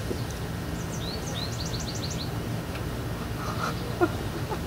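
A bird chirping: a quick run of about six short, high chirps about a second in, over a steady low background hum.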